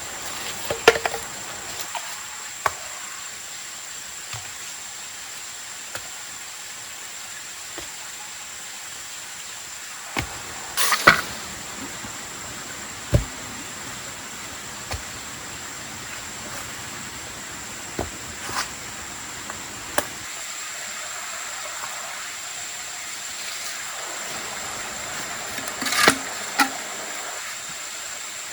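Irregular sharp knocks and snaps, about a dozen spread out with the loudest about eleven seconds in and near the end, over a steady hiss and a thin, steady high-pitched tone.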